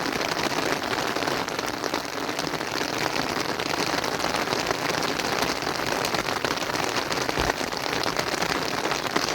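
Steady rain falling: an even hiss of many small drop impacts, holding the same level.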